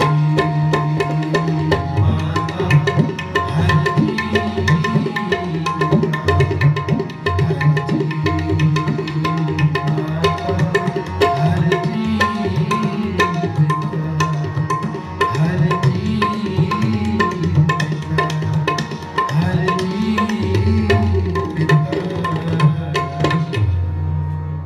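Tabla playing a fast solo passage with dense strokes, the bass drum's notes bending up and down, over a steady held drone of sustained tones, likely a harmonium. It eases off near the end.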